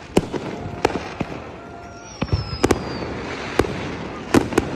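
Fireworks going off: a string of about nine sharp bangs and pops at uneven intervals over a crackling hiss. A whistling firework gives a high, slowly falling whistle about two seconds in.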